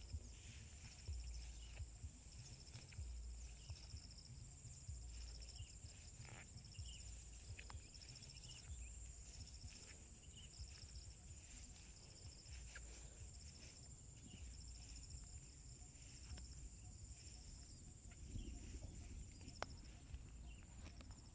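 Insects singing faintly: one steady high-pitched buzz with a second insect chirping in short repeated pulsing runs, over soft low thuds.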